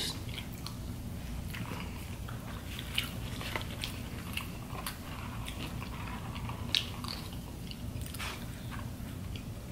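Close-up eating sounds: chewing and biting on fried popcorn shrimp and Cajun rice, with scattered small crunches and clicks.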